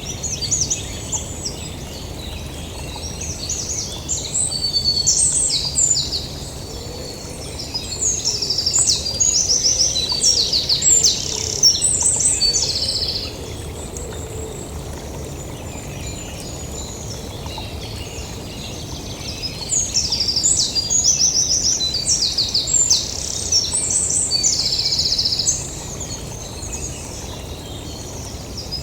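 Songbirds singing in the woods: quick high chirps and rapid trills in three bouts of a few seconds each, with pauses between them, over a faint steady low rumble.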